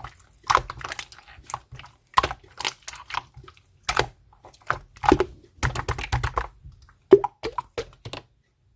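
Clear purple slime being squeezed and pressed by hand, making irregular clicky pops and squelches that stop shortly before the end.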